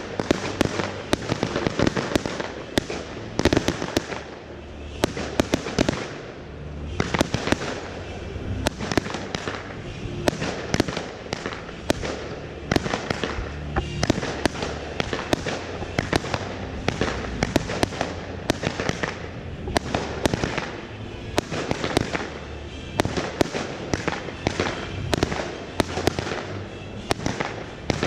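Fireworks display: shells bursting in a dense, irregular barrage of sharp bangs, with a brief lull about four seconds in.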